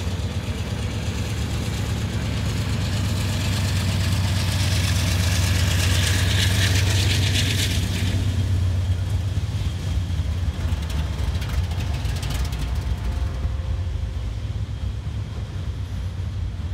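Norfolk Southern diesel-electric freight locomotives passing close below, with a loud, steady low engine drone. A hiss and clatter builds over it to a peak about seven seconds in and stops abruptly at about eight seconds. The low drone carries on more softly as the freight cars roll by.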